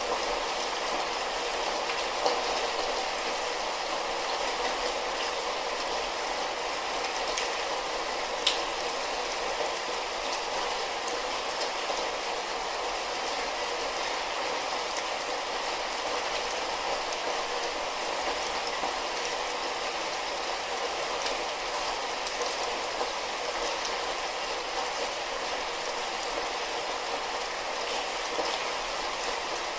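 Light rain falling steadily, an even hiss with a few sharper drop ticks now and then.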